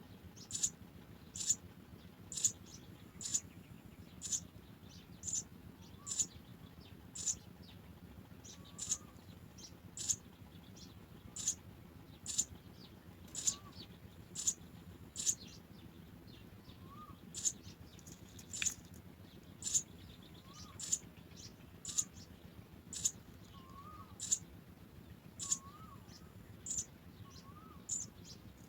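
House sparrow chirping: short high chirps repeated about once a second, with faint lower rising notes joining in the second half.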